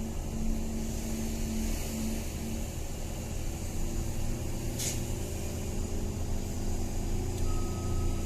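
Motor vehicle running at a steady pace, a continuous low engine hum with road noise.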